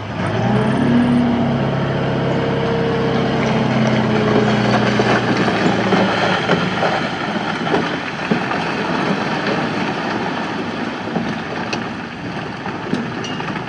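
Heavy diesel machinery engine running under load, holding a steady pitch for the first several seconds, then giving way to a rougher, noisier stretch with scattered knocks.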